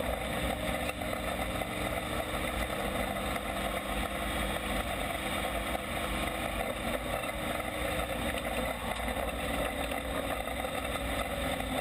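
Engines of WISSOTA Midwest Modified dirt-track race cars running, a steady mechanical drone.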